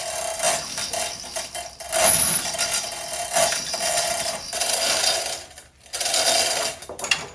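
Metal tools and parts clinking and scraping, busy and irregular, breaking off briefly about five and a half seconds in.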